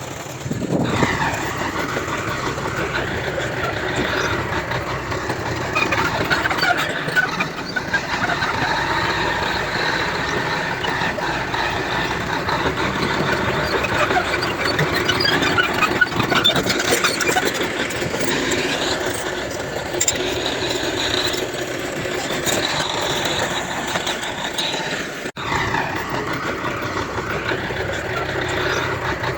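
Heavy earthmoving machinery running steadily, with diesel engine noise and a constant high metallic squealing typical of bulldozer tracks, and a brief dropout about 25 seconds in.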